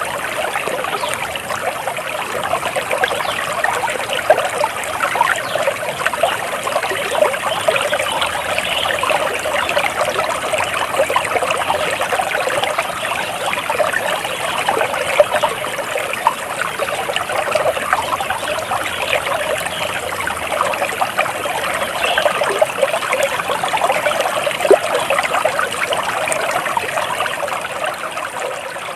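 Flowing water trickling steadily, as of a small stream.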